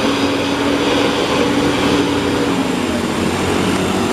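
A vehicle engine running steadily, a loud, even rumble and hiss.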